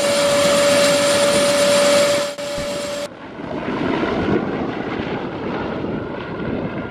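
Helicopter turbine and rotor running close by, a loud rushing noise with a steady whine. About three seconds in the sound cuts off abruptly to a duller, lower rushing noise.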